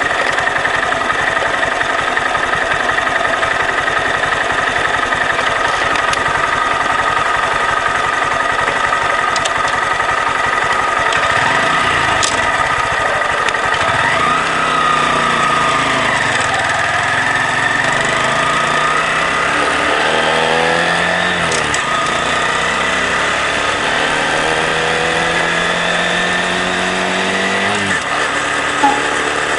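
Honda Grom's small single-cylinder four-stroke engine running while riding. From about halfway, its note rises and falls repeatedly as the bike accelerates and changes speed, climbing in steps toward the end.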